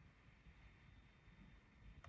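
Near silence: a faint low rumble and hiss of the night air, with no distinct sound.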